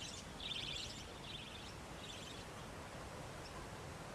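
Budgerigars chattering in a run of short, buzzy bursts, about two a second, that fade out about two seconds in, leaving faint background hiss.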